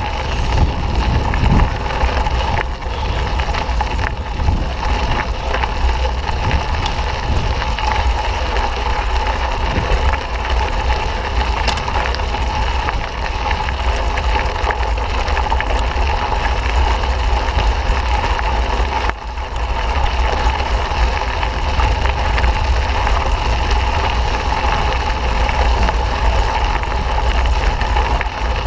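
Mountain bike riding a dirt trail: a steady rush of tyre and trail noise with wind rumbling on the microphone, with no breaks.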